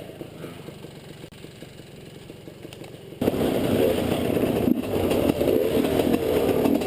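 Enduro motorcycle engine, faint at first, then suddenly much louder about three seconds in, revving up and down.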